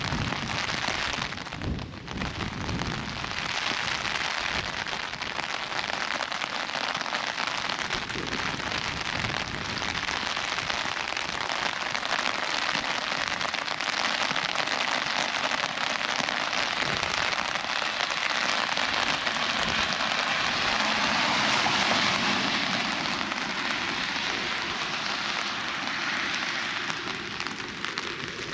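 Steady rain falling on an umbrella held overhead, a continuous even hiss that swells a little louder about three-quarters of the way through.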